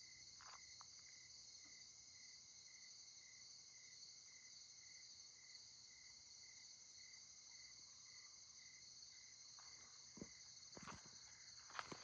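A faint chorus of night insects, crickets chirping: a steady high trill with a second chirp pulsing about twice a second. A few soft knocks come near the end.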